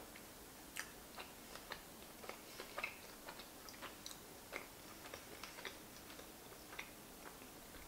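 Faint, close-miked chewing of soft giant fusilli pasta in a thick sauce: irregular small wet clicks and smacks of the mouth, a few a second.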